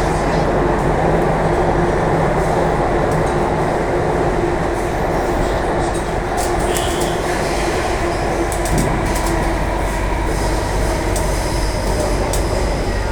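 Cabin of an Alstom C830 Circle Line metro train running steadily, a constant rumble and rushing noise with a low steady hum and faint clicks.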